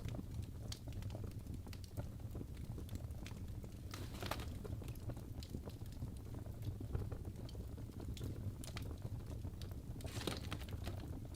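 Birch logs burning in a fireplace: a steady low rumble of flames with irregular sharp crackles and pops, and two brief hissing flare-ups, about four seconds in and near the end.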